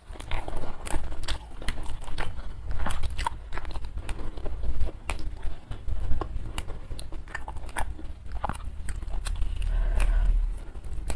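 Close-miked eating sounds: chewing and crunching food, with many irregular crackles and clicks, mixed with the snapping and rustling of fresh herb sprigs as leaves are picked off them.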